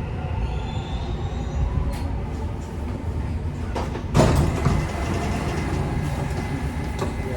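Dubai Metro train running on the rails with a steady low rumble and a faint wheel squeal in the first second or two. A loud clatter comes about four seconds in.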